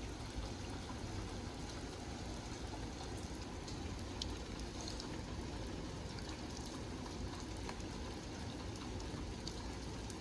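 Steady thunderstorm rain falling, an even hiss with scattered sharp drips and taps.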